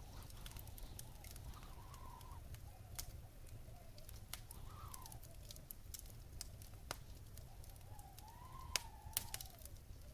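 Wood fire crackling in a fireplace, with scattered sharp pops over a low steady rumble. A faint wavering whistle-like tone rises and falls several times.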